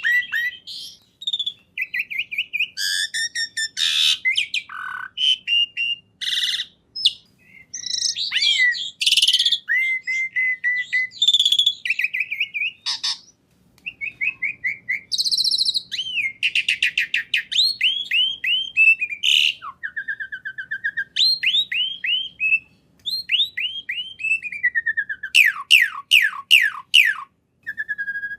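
A songbird singing a long, varied song of fast chirps, whistles and trills, with runs of quick downward-sliding notes, pausing briefly twice.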